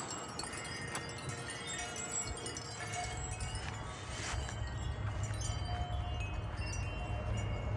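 Several wind chimes ringing in the wind, overlapping tones at many pitches struck irregularly as the gusts blow them, over a low wind rumble that grows a little about halfway through.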